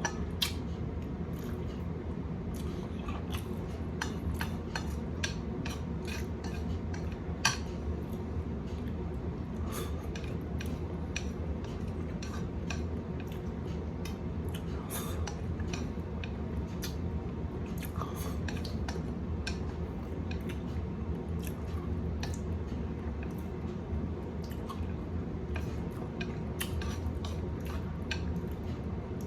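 A person eating instant fried noodles: wet chewing and many short, irregular clicks of a utensil on the dish, with two sharper clicks about half a second and seven and a half seconds in. A steady low hum runs underneath.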